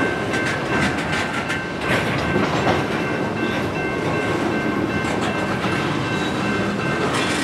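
Freight train cars rolling past, their steel wheels clicking over rail joints over a continuous rumble, with a few thin steady squealing tones from the wheels.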